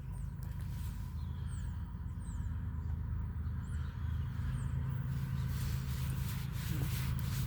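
Steady low engine rumble that grows slightly louder near the end, with four or five short, high, downward-sweeping bird chirps in the middle.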